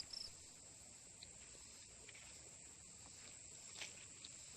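Faint, steady, high-pitched insect chorus in the grass, with a couple of faint clicks.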